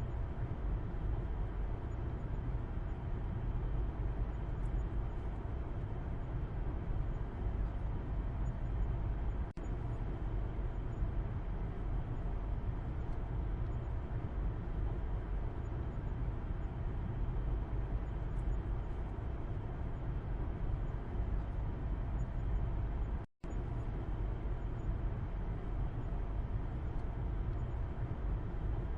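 Steady low road and engine rumble heard from the back seat inside a moving car. The sound cuts out completely for a moment about 23 seconds in.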